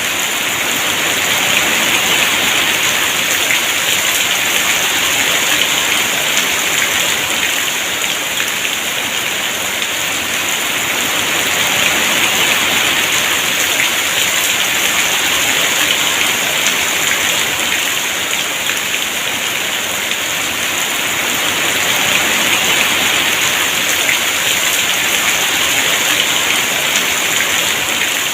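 Heavy rain pouring down in a steady dense hiss, swelling and easing a few times.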